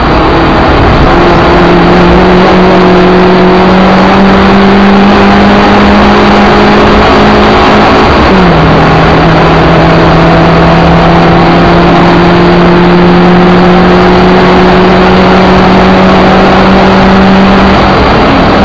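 Suzuki Ignis Sport's 1.5-litre four-cylinder engine accelerating on track, heard loud from inside the cabin over road and wind noise. The engine note climbs steadily, then drops suddenly about eight seconds in at an upshift, and climbs slowly again.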